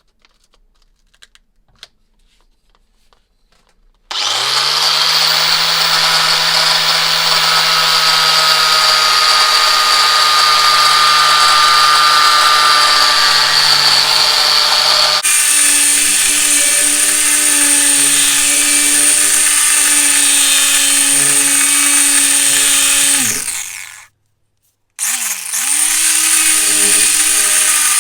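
Faint small handling clicks, then an electric power tool's motor spins up about four seconds in and runs steadily under load. Its sound shifts abruptly partway through, then it winds down and stops, and a few seconds from the end it starts again.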